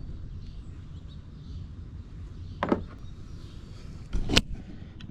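Tools and a metal toolbox being handled, with two sharp knocks about a second and a half apart, the second the louder, over a steady low rumble.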